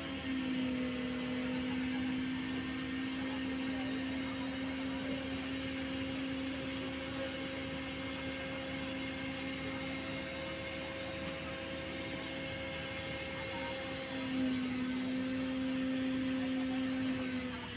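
Steady machinery hum: one low held tone with an overtone above it over a haze of noise, dipping and shifting slightly about fourteen seconds in.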